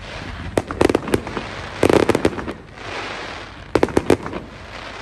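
Fireworks going off in three quick volleys of sharp bangs, each a rapid string of reports, with a rushing hiss between the volleys.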